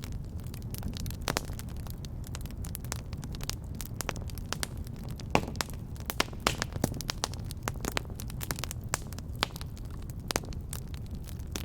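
Wood fire crackling in a fireplace: irregular sharp snaps, a few louder than the rest, over a steady low rumble of the flames.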